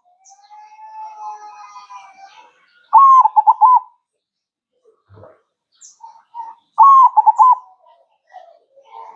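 Zebra dove (perkutut) cooing. Two loud phrases about four seconds apart, each a short run of quick, bubbling coos.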